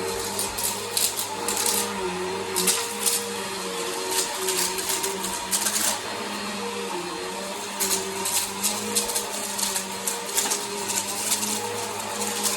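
Bissell Power Force vacuum cleaner running steadily, its motor humming, with repeated bursts of crackling and rattling as grit and debris are sucked up.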